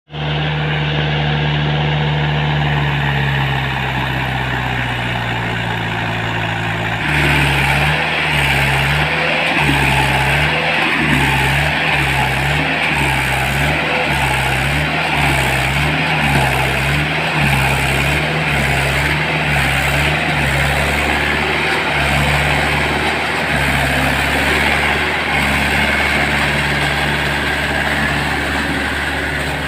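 Tractor engine running loud and continuous under load. Its low note pulses about once a second for much of the time, then holds steady near the end.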